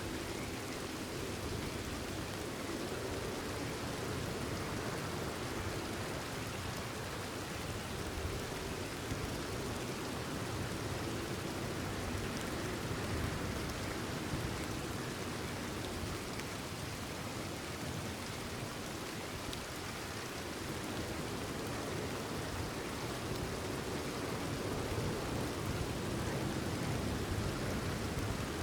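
Steady rain falling, an even unbroken hiss at a constant level.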